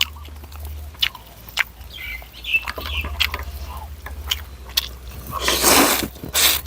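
Close-miked eating: chewing with scattered wet mouth clicks and smacks. A louder noisy rush comes about five and a half seconds in, with a shorter one just before the end.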